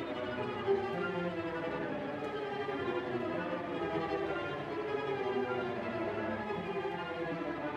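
Orchestral suspense texture from Project SAM's Lumina Kontakt library, a 'mystery – long – master suspense' patch sounded by one held key: a sustained, layered string-like chord that wavers slowly without a break.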